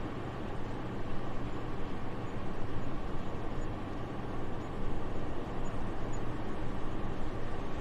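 Soft, steady wind noise with a low rumble, even throughout with no gusts or separate sounds.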